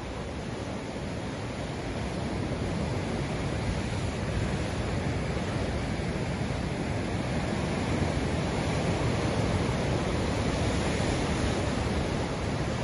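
Ocean waves breaking and washing on the shore, a continuous rush of surf that swells a little a couple of seconds in.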